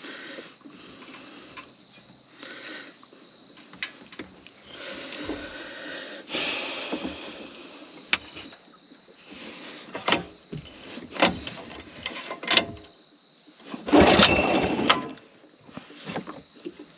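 Scattered knocks and clunks, with a rushing burst of about a second near the end; the small boat's engine is not running.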